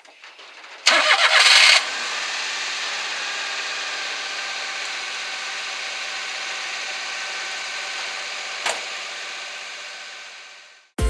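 Kei truck engine cranked by its starter motor and catching about a second in, then settling into a steady idle. The engine is being started with power from a jump starter. A single short click comes near the end, and the engine sound fades out.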